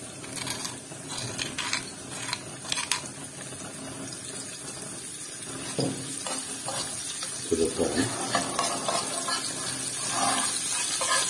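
A metal spoon clinking and scraping against a wooden bowl and a nonstick frying pan, then chopped garlic and basil sizzling in hot ghee as the spoon stirs them, the sizzle growing louder in the second half.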